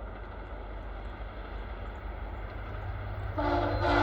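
VIA Rail F40 locomotive approaching at speed, its rumble growing louder, then its horn sounds a steady multi-note chord about three and a half seconds in.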